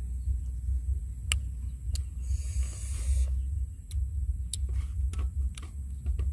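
Close-up eating sounds of crisp young green mango being chewed: several sharp crunches, with a short hissy stretch of noise between two and three seconds in, over a steady low rumble.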